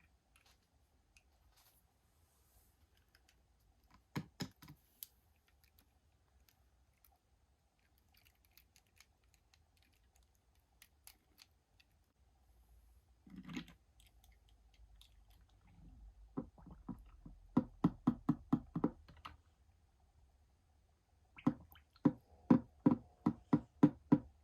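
Hands handling toy packaging: scattered clicks, then two runs of about ten quick taps, roughly four a second, in the second half.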